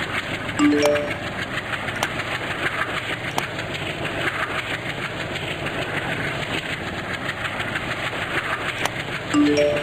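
Steady rumble of a diesel-hauled passenger train, with a few faint clicks. Twice, just under a second in and again near the end, a short three-note rising station announcement chime sounds over it.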